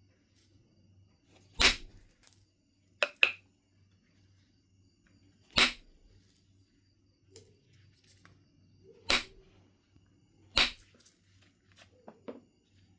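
Knapping strikes on a piece of Knife River Flint: sharp, short clicks of stone being struck to knock off flakes, a few seconds apart, one of them a quick double, with a few softer ticks near the end.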